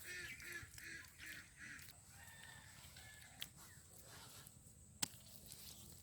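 A bird giving a quick series of about six short, repeated calls in the first two seconds, then quiet background with a single sharp click about five seconds in.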